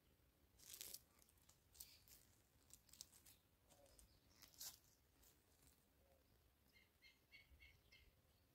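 Near silence, with a few faint rustles and clicks, then near the end a bird chirps about six times in quick succession.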